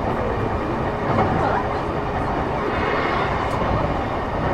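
Running noise of an E233-6000 series electric commuter train heard from inside the passenger car, a steady rumble of wheels on rail as it travels between stations.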